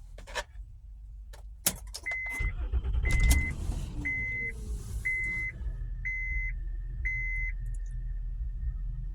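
A few clicks and a key jangle, then a car engine starting about two seconds in and settling to a steady idle. Over it a dashboard warning chime beeps six times, about once a second.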